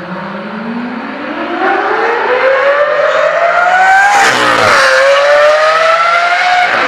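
A car engine accelerating hard at full volume. The revs climb steadily for about four seconds, drop with an upshift, then climb again in the next gear.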